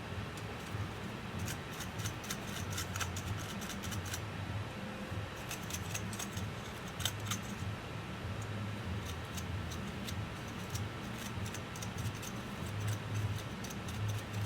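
Small hand tools clicking and scraping on laptop parts during cleaning and repair work: irregular light clicks, over a low hum that comes and goes.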